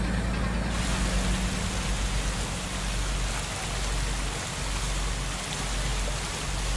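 Steady hiss of falling or splashing water, like heavy rain on a surface. A low engine hum fades out within the first second or two.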